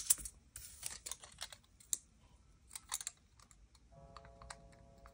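Small piece of aluminium kitchen foil crinkling between fingers as it is handled: a run of small, sharp crackles that thin out after about three seconds.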